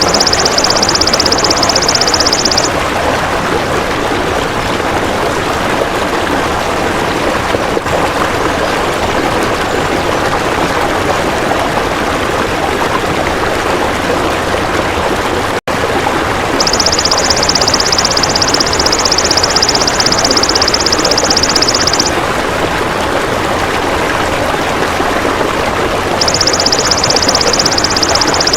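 High, rapid buzzing trill of a golden grasshopper (belalang emas) in bouts of a few seconds: one at the start, one from about 17 to 22 seconds, and one starting near the end. Under it runs a steady rushing of stream water, with a brief dropout near the middle.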